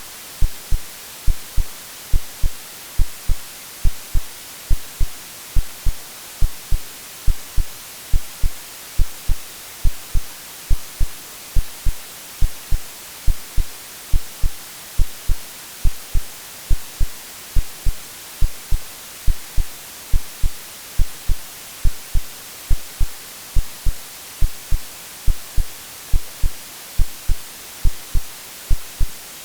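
AI-generated heartbeat: a steady low lub-dub double thump about once a second, over constant white-noise hiss. It is a sleep sound meant to resemble what a baby hears in the womb.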